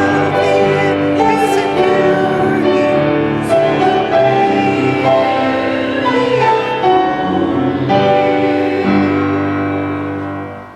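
A church congregation singing the closing lines of an introit hymn with instrumental accompaniment, ending on a long held final chord that fades away near the end.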